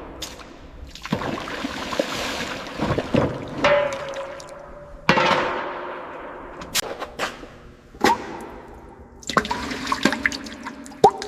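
Liquid splashing and dripping: three gushes that start suddenly and fade away, with sharp drips and metallic clinks that ring briefly.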